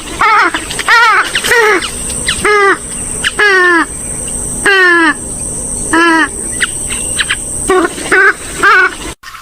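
Gallinule calls: a run of about a dozen short, harsh calls, each bending downward in pitch, some coming in quick pairs, over a faint steady high-pitched tone.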